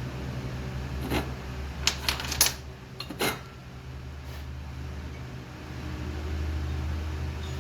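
A handful of sharp clicks and knocks, bunched together within about two seconds, over a steady low hum.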